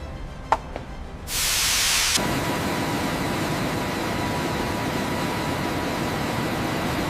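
Aircraft jet engine starting up for a spool-up test: a sharp click, a sudden loud hiss about a second in, then a steady rush of running-engine noise with a faint steady whine.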